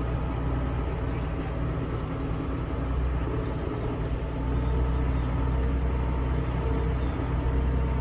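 Tractor engine running steadily at a constant speed, a low even drone with no change in pitch.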